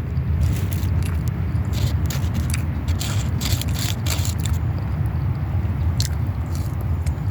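Close-miked chewing and biting of a burger, with many short wet clicks and crunches of the mouth and food, over a steady low hum.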